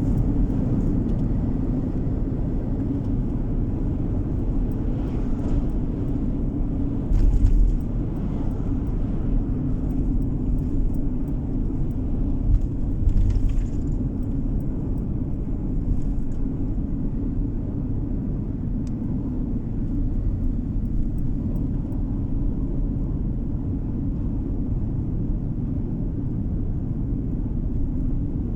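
Steady low road rumble of a moving car, mostly tyre and engine noise, with a couple of brief louder bumps about a quarter of the way in and again near the middle.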